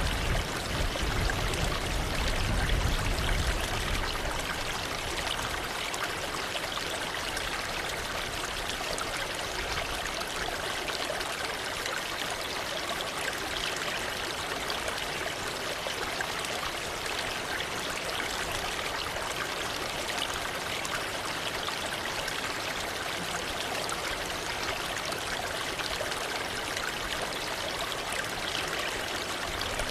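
Waterfall: a steady rush of falling and splashing water, with a deeper rumble in the first few seconds.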